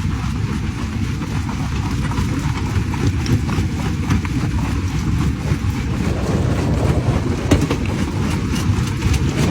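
Diesel engine of a heavy earth-moving machine running steadily, a dense low rumble.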